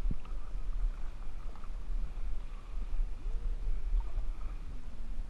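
Kayak paddling on a river: water and paddle noise under a steady low rumble of wind on the microphone, with a short knock at the start. In the second half a faint tone rises briefly and then slides slowly down.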